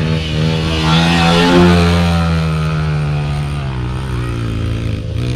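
Dirt bike engines running, one revving up in pitch to a peak about a second and a half in and then easing off, over a steady low engine drone, as the bikes climb a steep hill.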